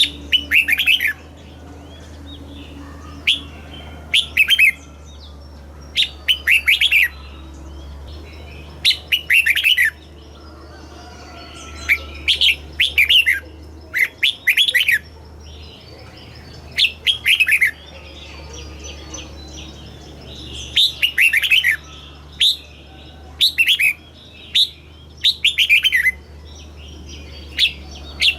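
Red-whiskered bulbul singing short, bright phrases of a few quick, mostly falling notes, one phrase every second or two, over a faint steady low hum.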